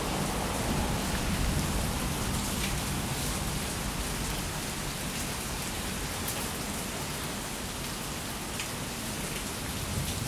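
Steady rain falling, with scattered sharp drop ticks close by.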